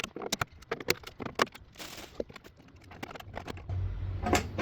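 Irregular small metallic clicks, clinks and knocks of old tractor parts being worked loose by hand. A steady low hum starts near the end.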